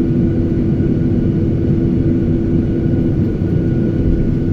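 Gol Boeing 737's jet engines heard from inside the cabin: a steady low rumble with a constant hum.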